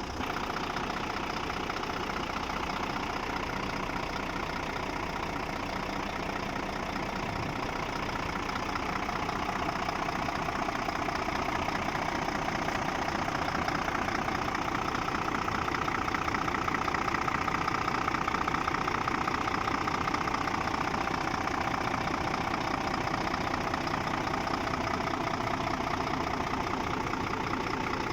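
Scania truck's diesel engine idling steadily, a little louder past the middle.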